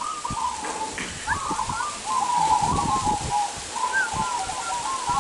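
Many zebra doves (perkutut) cooing at once, their short staccato coos overlapping into a continuous chorus, with gusts of wind buffeting the microphone.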